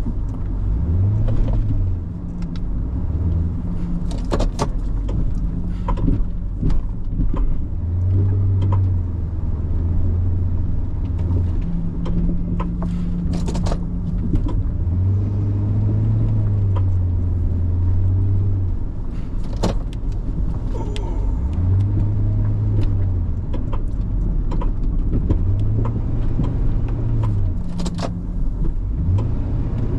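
Truck engine revving up and easing back in repeated surges under load while pushing an obstacle aside, with scattered knocks and clunks.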